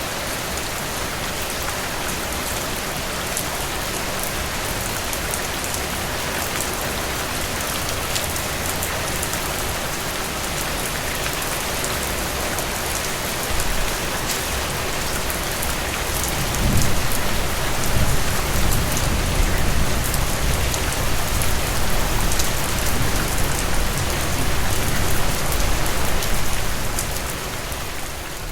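Heavy rain falling steadily, with fine drop ticks in the hiss. About halfway through, a deep low rumble rises under the rain and holds for about ten seconds before the sound eases near the end.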